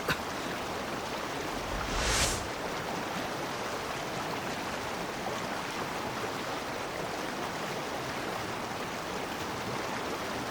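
Steady rushing river water, an even hiss, with a short louder swell about two seconds in.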